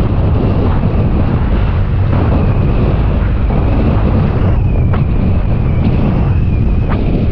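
Wind buffeting the microphone on a moving motor scooter, a loud, steady rumble, with a thin steady whine from the scooter's engine and drive under it.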